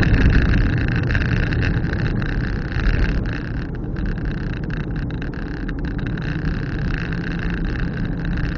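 Car driving along the road: steady engine and tyre rumble with some brief scattered clicks.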